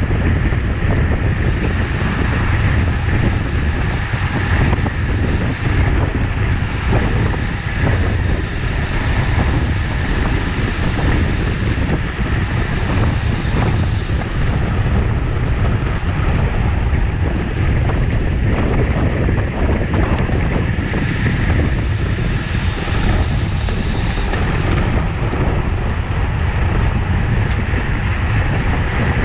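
Wind buffeting the microphone of a road bicycle at race speed in a criterium: a steady rush heaviest in the low rumble, with no break.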